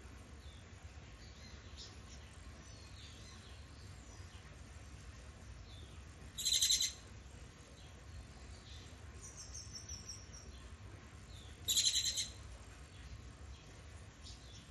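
Songbird calls: two short, harsh rattling calls about five seconds apart, over faint scattered chirps and a brief high whistle from other birds.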